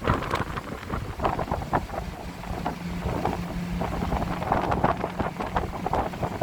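Wind buffeting the microphone and road noise in an open-top car on the move. Beneath it runs the Aston Martin DB9's V12 engine, with a steady low drone from about two seconds in.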